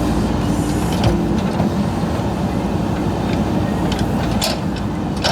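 Backhoe loader's diesel engine running steadily, with a few short clanks and knocks, loudest about a second in and near the end.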